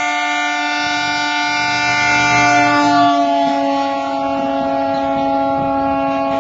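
A train's horn sounding in one long unbroken blast. Its pitch drops slightly about three seconds in.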